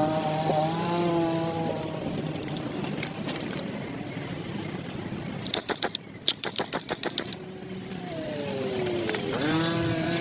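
Motor vehicles passing on a street, their engine pitch sliding as each goes by, over a steady traffic noise. A rapid run of sharp clicks, about six a second, comes around the middle.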